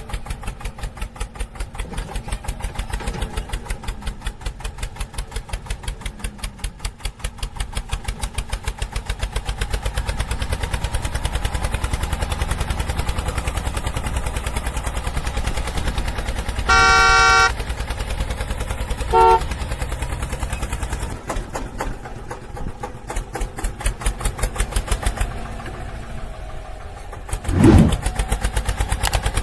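Mini tractor's engine chugging at a steady, fast beat. A little over halfway through, a horn honks for under a second, then gives a short toot about two seconds later. Near the end there is a brief loud swoop.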